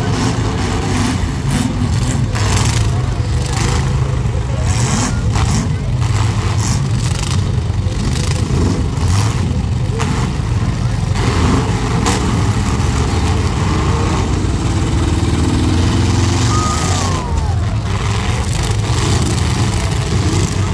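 Demolition derby cars' engines running and revving loudly in a steady low rumble, with repeated sharp knocks.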